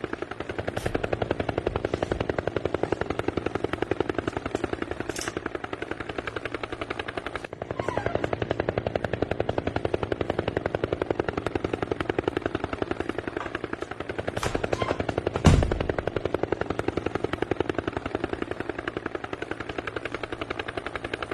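Rapid, steady chopping pulse like a helicopter's rotor, the sound the speaker asks about as a helicopter sound, with one loud low thump about fifteen seconds in.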